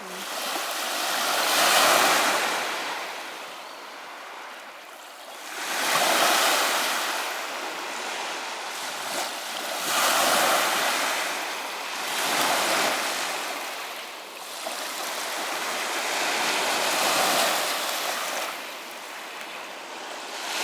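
Waves of the Gulf of Finland washing onto the shore, the surf noise swelling and fading about five times.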